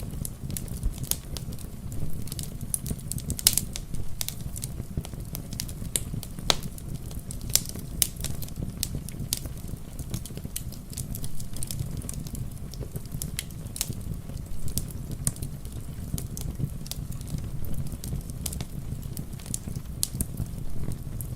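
Wood fire in a fireplace crackling steadily, with frequent sharp pops and snaps over a low, even rumble.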